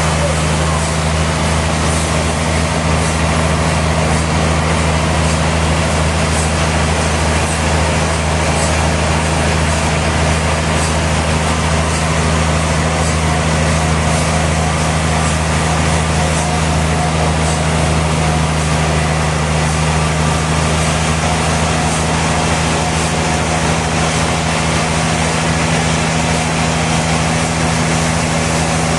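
Sawmill machinery running steadily: a constant low hum with an even hiss over it, unchanging in level and pitch.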